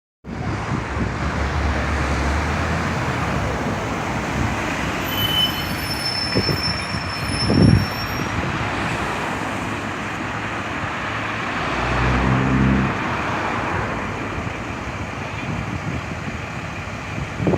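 Scania L94UB Wright Solar single-deck bus engine running amid steady street traffic noise, with a low engine hum that swells about twelve seconds in and a brief knock near eight seconds.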